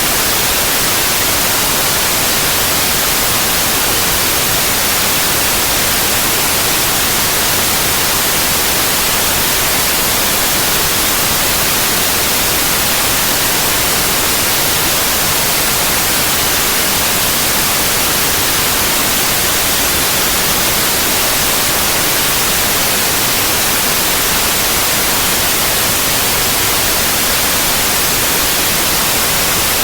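Synthetic white noise: a steady, even hiss with its energy leaning to the high frequencies, unchanging throughout.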